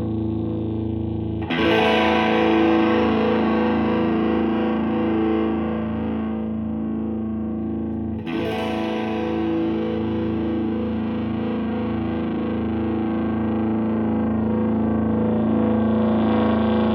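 Electric guitar through a Suhr Shiba Drive Reloaded, a Tube Screamer-style overdrive pedal, giving a mid-heavy overdriven tone. Two chords are struck, about a second and a half in and again about eight seconds in, and each is left to ring out.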